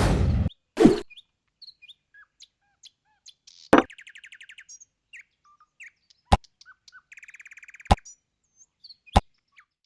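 Small birds chirping sparsely, with two short buzzy trills and a few sharp knocks between them. A music track cuts off about half a second in.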